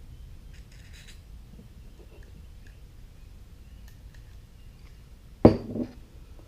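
Small parts and tools being handled: a few faint clicks, then a loud clunk near the end with a smaller knock just after it.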